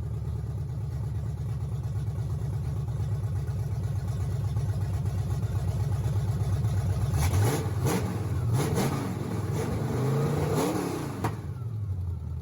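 Ford 351 Windsor small-block V8 running on open headers: a steady idle, then blipped up and down several times from about seven seconds in, settling back to idle near the end.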